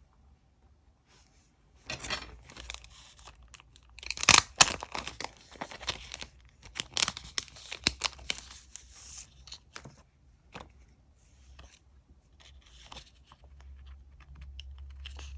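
Paper being torn and crinkled by hand: a run of rustling and ripping starts about two seconds in, loudest around the middle, then thins out into a few light taps and rustles.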